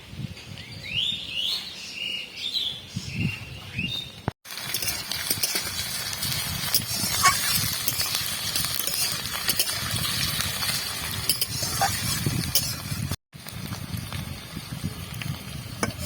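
Birds chirping for the first few seconds, then a steady hiss with scattered small crackles from spices and greens frying in hot mustard oil.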